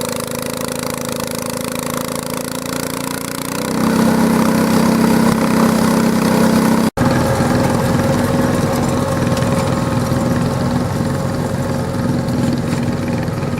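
Garden pulling tractor engine running loud, revving up and getting louder about three and a half seconds in. After a split-second dropout about seven seconds in, an engine runs on steadily.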